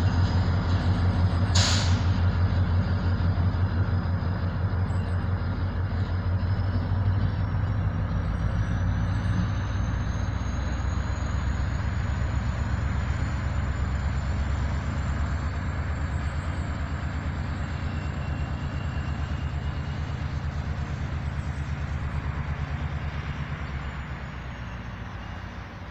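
Diesel locomotive rumble slowly fading as the train pulls away, with a single sharp clank about two seconds in and a thin high whine that creeps up in pitch.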